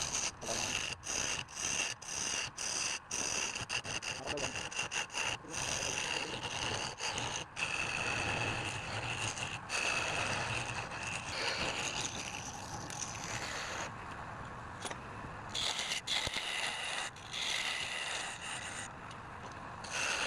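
A wood lathe turning, with a turning tool scraping and cutting the spinning wood. It gives a steady scraping hiss with a high whine, and during the first half it keeps breaking off for an instant.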